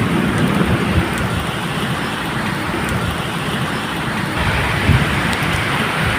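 Steady medium rain falling, with the low rumble of distant thunder rolling underneath.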